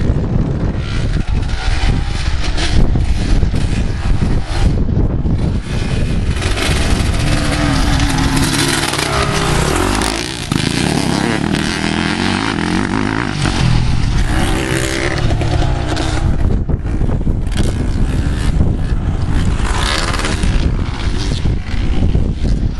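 Motocross dirt bike engine revving, its pitch rising and falling as the throttle opens and closes.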